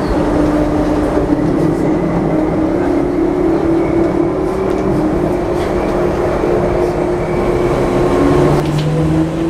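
Light rail train running: steady rolling noise with a droning hum whose pitch edges up slightly partway through.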